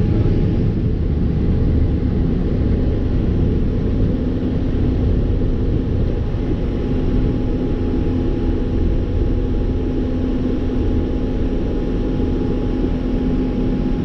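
Fendt IDEAL 7 combine harvester running steadily: a constant low machinery rumble with a faint, steady hum over it.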